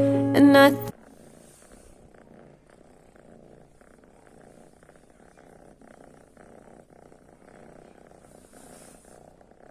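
The last notes of a song end about a second in. Then a kitten purring steadily and softly.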